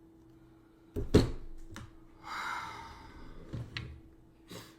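A sharp thump about a second in, then a short breathy noise like an exhale and a few light clicks, over a faint steady hum.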